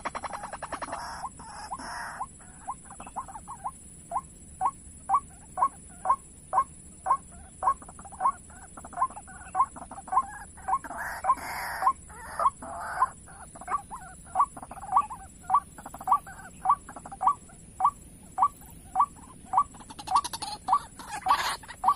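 White-breasted waterhen calling: a long, steady series of short 'kwak' notes, about two a second.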